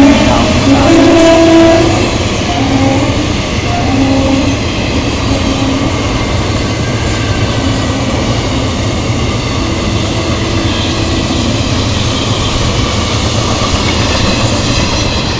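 Passenger coaches of an electric-hauled express train passing close by at speed, a steady rumble of wheels on rail. The train's horn tails off over the first two seconds.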